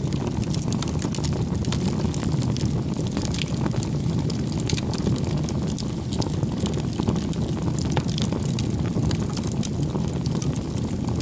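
Wood bonfire burning: a steady low roar of flames with frequent sharp crackles and pops from the burning wood.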